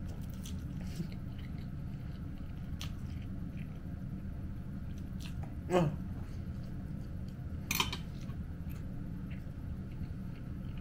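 A person chewing and eating close to the microphone: soft wet mouth clicks over a steady low hum, with two louder, sharper sounds about six and eight seconds in.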